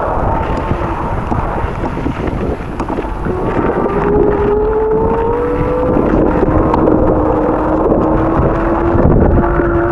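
Strong wind buffeting the microphone during a winter bike ride, a steady low rumble with a humming tone that slowly rises in pitch.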